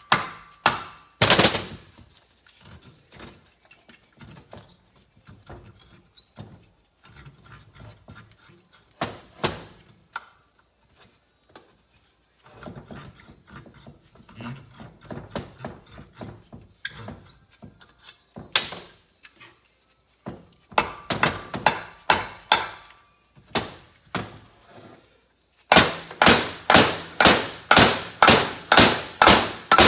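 Hammer blows on metal engine parts: a few single sharp strikes with quieter clinking and handling in between, then a steady run of about three blows a second near the end.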